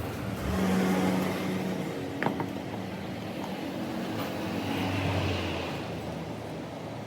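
A motor vehicle's engine running, swelling in level twice, with a single sharp click a little over two seconds in.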